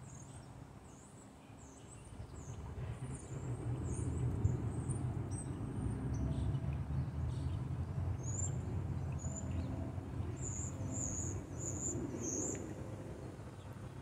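Repeated thin, high bird chirps, louder and sharper between about eight and twelve seconds in, over the low, steady rumble of a train going by, which builds about two seconds in.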